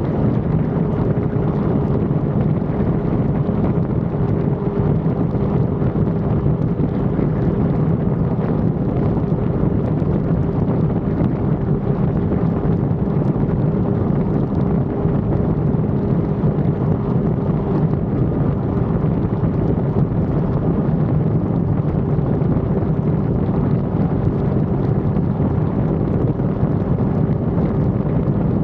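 Yamaha R1 sport bike's inline-four engine running at a steady cruise, its pitch holding level, with wind rushing over the action-camera microphone.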